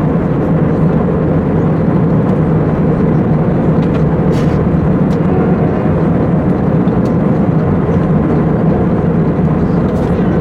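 Steady cabin noise of an Airbus A320 in cruise, heard from inside the cabin: a constant rush with a low drone that does not change.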